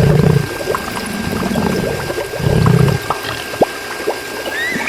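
Water pouring and splashing from a mini water pump, with a steady thin whine from its small motor throughout. Two low rumbling swells come at the start and about halfway through.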